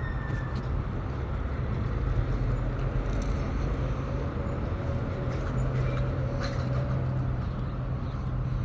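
A motor vehicle's engine running steadily, a low even rumble.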